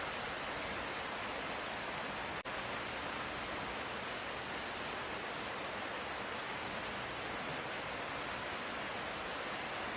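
Steady light rain, an even hiss with no thunder. It cuts out for a split second about two and a half seconds in.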